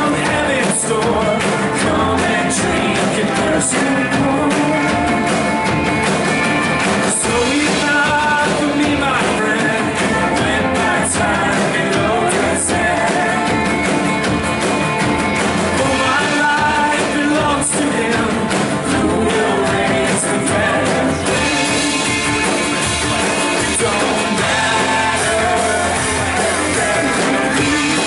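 Live church worship band playing a rock-style song, with singing over the band.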